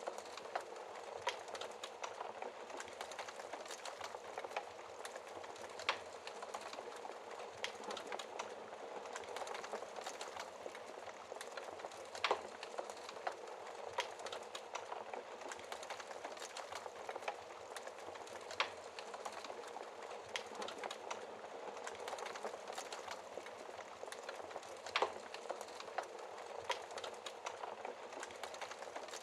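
Fire crackling in a fireplace: a steady soft hiss of flames dotted with frequent small pops, and a few louder snaps spaced several seconds apart.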